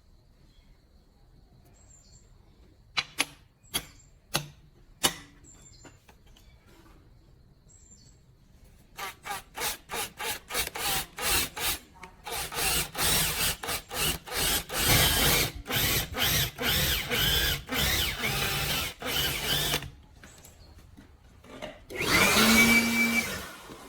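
Hand tool work on wood in a workshop: a few sharp knocks, then a long run of rhythmic scraping strokes that quickens and grows louder, and near the end a brief whir of a power drill.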